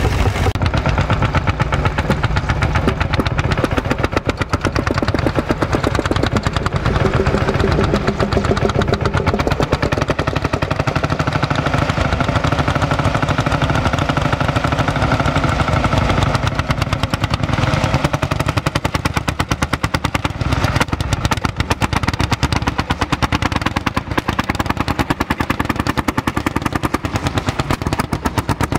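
Old tractor engine running steadily with a rapid, even knocking exhaust beat.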